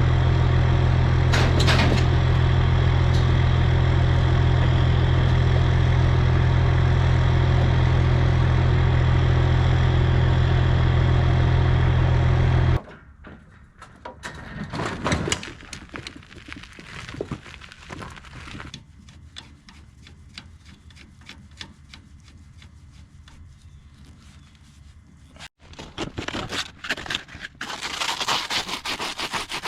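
A small engine or motor runs loud and steady, then stops suddenly about thirteen seconds in. Quieter scrapes and knocks follow, and rubbing starts near the end.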